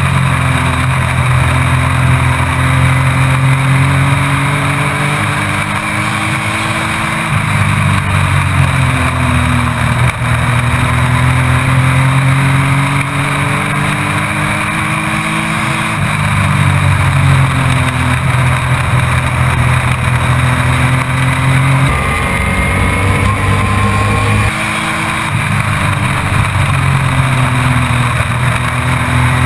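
Race truck's engine heard from onboard, its pitch climbing for several seconds and dropping each time the throttle comes off, over and over as it laps the short oval, under a constant rush of road and wind noise.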